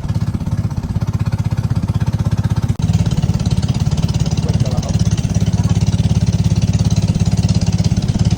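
Small engine running steadily with a rapid, even chugging, briefly breaking off about three seconds in and then running on a little louder.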